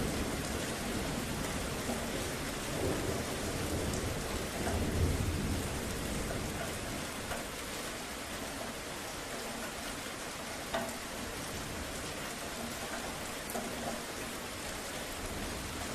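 Steady rain falling, with a low thunder rumble in the first few seconds that fades away, leaving rain alone.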